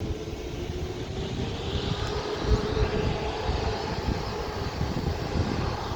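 Aircraft engines running at an airfield, a steady drone with a faint hum, under gusty wind rumble on the microphone.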